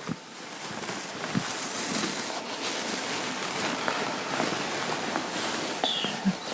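Fabric rustling and rubbing as clothing is handled: a steady, continuous rustle with a few light clicks.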